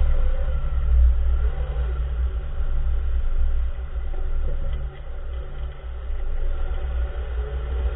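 2014 Nissan March on the move: a steady low road rumble, with a brief drop in loudness about five seconds in. No distinct clunk stands out.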